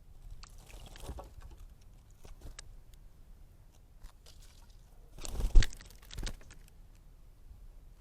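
Scrub jay splashing in a bird bath: a spell of splashing starts about half a second in, and a second, louder spell comes about five seconds in, with a few small splashes and drips in between.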